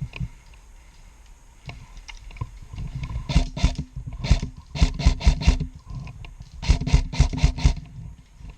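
Airsoft rifle firing, about a dozen sharp shots in three quick strings, each a fraction of a second apart.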